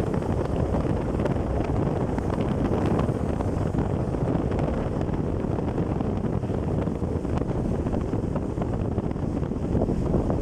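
Wind buffeting the microphone, a steady low rush with no break.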